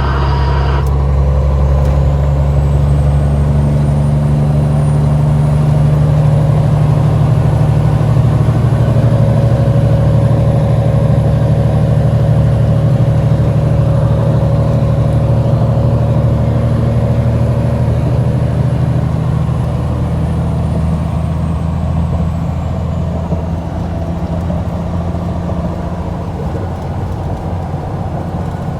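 Semi truck's diesel engine running steadily with road noise while driving, a loud, even low hum that eases off slightly near the end.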